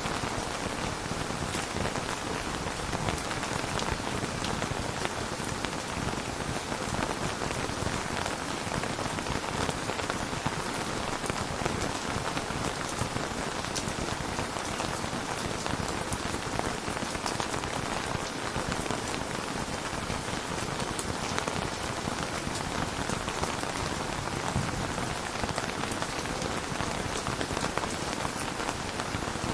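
Steady heavy rain falling, a dense even patter of drops with no thunder heard.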